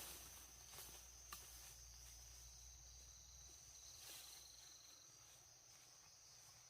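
Near silence with a faint, steady high-pitched insect drone, with a brief second trill about three seconds in.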